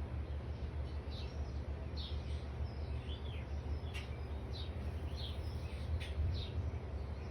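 Small birds chirping, short high chirps about two a second, over a steady low rumble.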